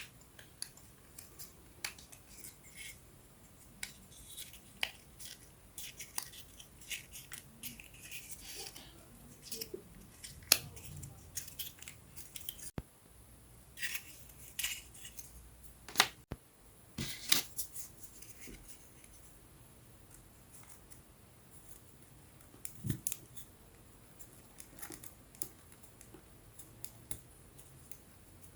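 Scattered light clicks, snaps and short scrapes of thin wooden puzzle pieces being handled and fitted together, with a small knock about two-thirds of the way through.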